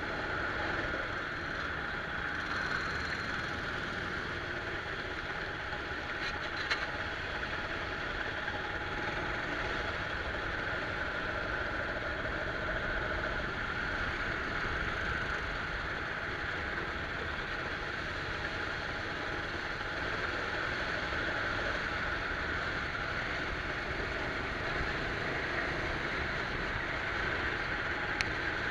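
Go-kart engine running steadily, heard from on board the kart, with a broad even rush over it and a small click about 7 seconds in.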